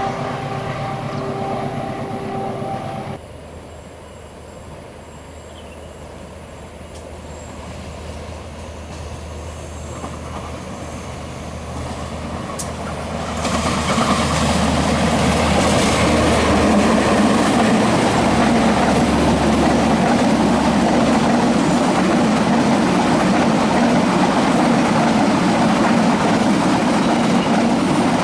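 Passenger train running past on the rails, with wheels clattering. A low hum with steady tones opens, breaks off suddenly about three seconds in, and the rumble builds gradually before turning loud from about halfway.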